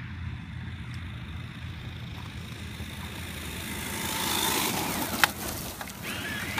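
Electric RC car's motor whining as the car drives closer and gets louder about four seconds in. A single sharp knock a little past the five-second mark is the loudest moment, and then the whine picks up again near the end.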